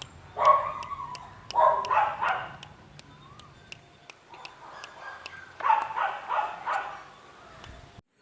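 Puppies barking and yipping in short runs of quick, high-pitched barks: one about half a second in, a cluster about two seconds in, and another quick run near the end.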